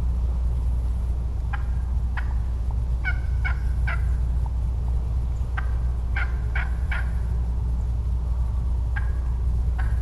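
Wild turkey yelps: short, clear notes about half a second apart, in runs of two to four, over a steady low rumble.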